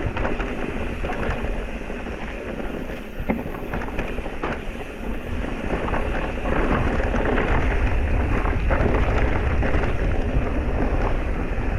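Electric mountain bike rolling over a rocky dirt trail: tyres crunching and the bike rattling in a dense run of small clicks, with wind rumbling on the microphone.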